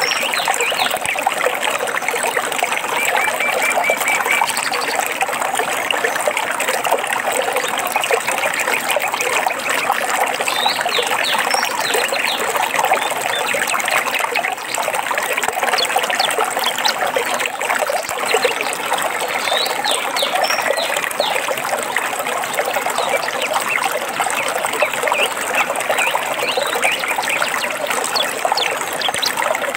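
Running water of a small stream trickling and splashing steadily, with songbirds chirping over it throughout, including a short trill about a second in.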